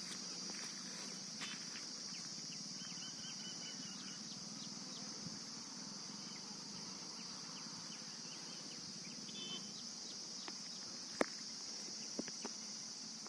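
Chorus of insects shrilling as one steady high drone, with faint short bird chirps over it and a single sharp click about eleven seconds in.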